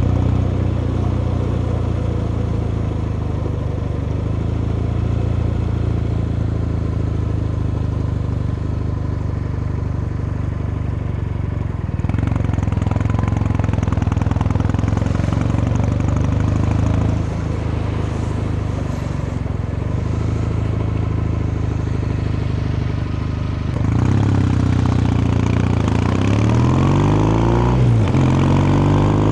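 Kawasaki Meguro K3's air-cooled vertical-twin engine and exhaust running steadily. Near the end it accelerates, its pitch rising and dropping several times.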